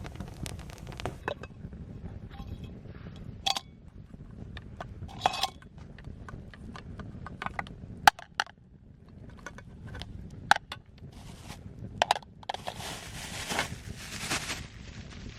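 Scattered knocks and clinks of objects being handled, with a stretch of scraping or rustling near the end.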